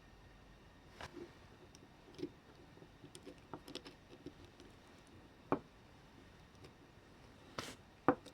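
Small parts and tools being handled on a work surface: scattered light clicks and taps, with a sharper click about five and a half seconds in and a few more near the end.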